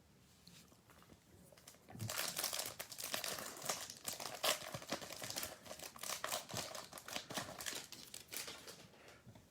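Plastic wrapper of a trading-card pack being torn open and crinkled. It starts about two seconds in and lasts around seven seconds.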